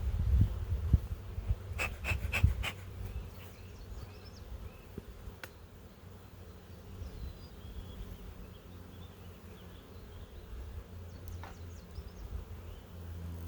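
Honeybees buzzing around an open hive, a steady low hum, with a few low thumps at the start and a quick run of four sharp clicks about two seconds in.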